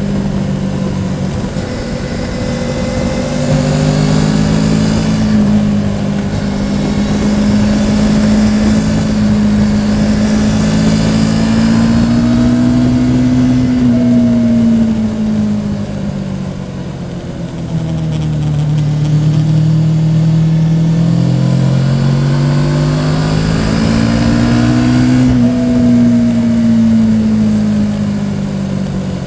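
Yamaha Tracer 700's parallel-twin engine under way, its pitch rising and falling with the throttle. It eases off and drops in pitch a little past halfway, then picks up again, with wind rumble on the microphone.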